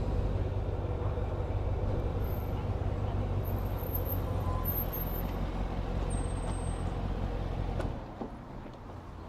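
A vehicle engine running with a steady low rumble, which drops away sharply about eight seconds in.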